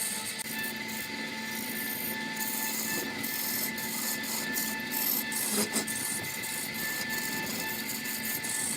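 Wood lathe running with a tool or abrasive rubbing on the spinning wood: a steady motor whine under a hissing scrape that keeps cutting in and out.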